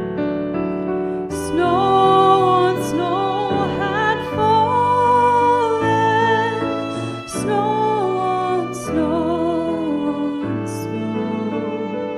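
A woman's voice singing a slow melody with vibrato over piano accompaniment, the voice coming in about a second and a half in.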